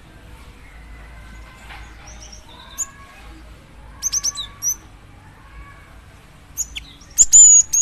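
Female gelatik batu (cinereous tit) calling: a quick run of sharp, high notes about four seconds in, then a louder, denser burst of high calls near the end, over faint whistling of other birds. It is the female's call to a male.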